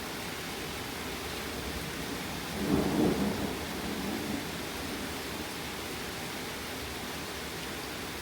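Steady heavy rain falling, with a deep rumble of thunder that rises about two and a half seconds in, peaks briefly and rolls away over the next two seconds.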